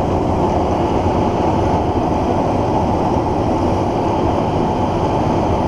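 Superior 9000 grain crimping mill running steadily under load, crimping freshly cut winter wheat: a loud, continuous mechanical noise.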